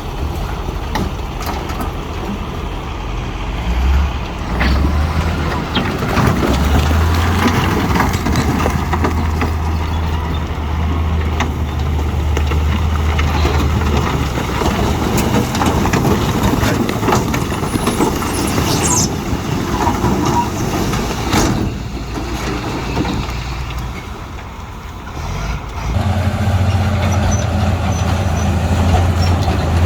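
Heavy diesel earthmoving machinery working: a deep engine note that rises and falls with load, easing off for a few seconds about three quarters of the way through before pulling hard again. A brief high squeal cuts in about two thirds of the way in.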